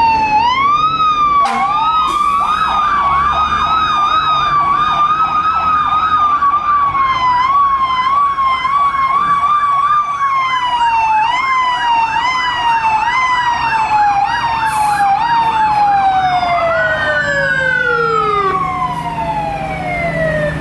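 Fire truck sirens in a parade: a slow wail rising and falling, joined about two seconds in by a fast yelp that runs until near the end. Then the yelp stops and the sirens wind down, their pitch falling away steadily.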